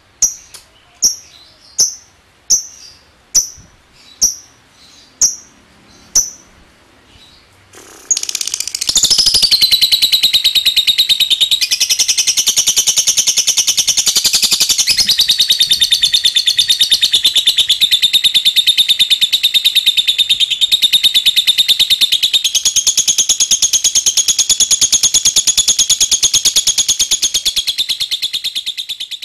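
Lovebird giving single sharp chirps a little over half a second apart, then, about 8 seconds in, breaking into its long 'ngekek': an unbroken, very rapid chattering trill that runs about twenty seconds, shifting in pitch now and then.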